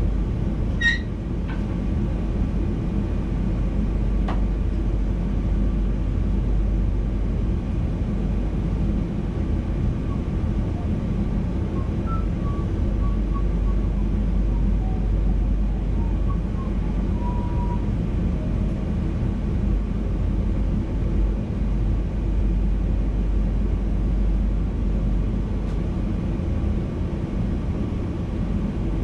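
VIRM double-deck electric intercity train running on the line, heard in the driver's cab: a steady low rumble of the wheels and running gear, with a short high squeak about a second in and a sharp click a few seconds later.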